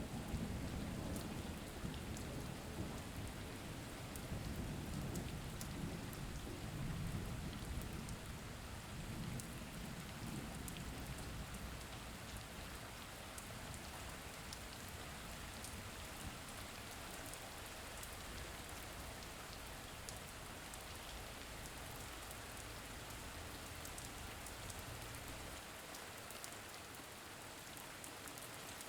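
Steady rain falling, with a low rumble of thunder through roughly the first twelve seconds that then fades, leaving the rain alone.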